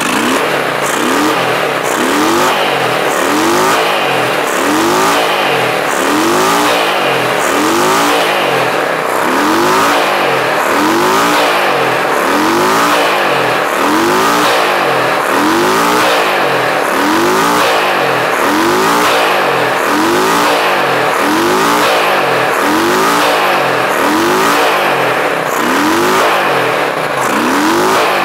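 Honda Shadow 600's V-twin engine revved over and over by hand, the throttle blipped about once a second so that each rev rises and drops back. The engine shakes hard and spits fuel, which the mechanic takes for a fault still present in the bike.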